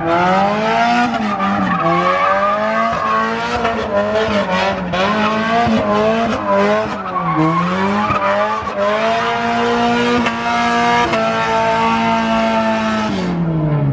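Car doing a burnout: the engine is held at high revs, its pitch repeatedly rising and falling, over the hiss and squeal of spinning tyres. Near the end the revs drop away.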